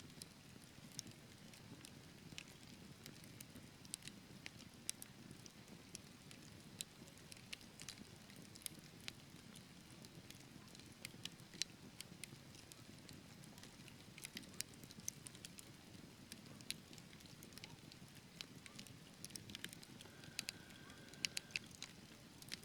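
Wood fire burning in a fireplace, crackling with irregular sharp pops over a low, steady rumble of the flames. A brief thin whistle sounds near the end.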